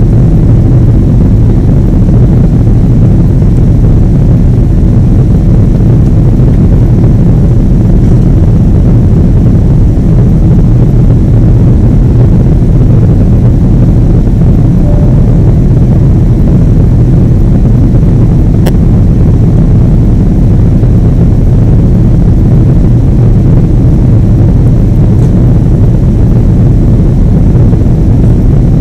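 Steady low rumble of a Boeing 777's jet engines and airflow, loud and unchanging.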